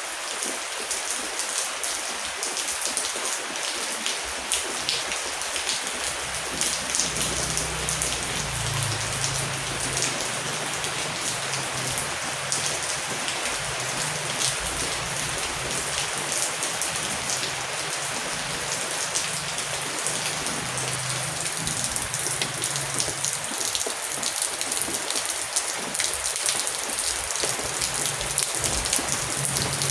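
Heavy rain falling on a surface, a steady hiss dense with individual drop ticks. A low rumble comes in underneath about six seconds in and fades in the later part.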